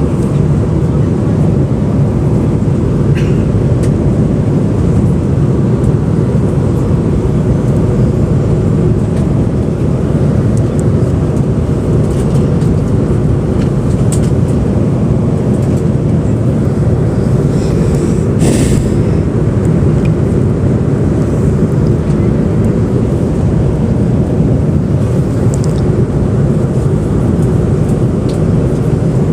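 Steady low noise of an airliner in flight, heard inside the passenger cabin: jet engines and airflow at cruise. There is a short hiss about two-thirds of the way through.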